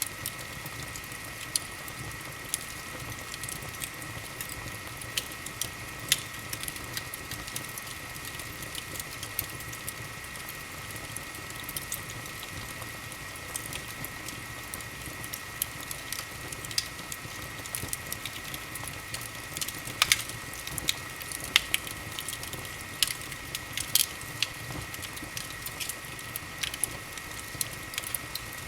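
Wood fire in a fireplace crackling: irregular sharp pops and snaps over a steady hiss, with a cluster of louder pops a little past the middle.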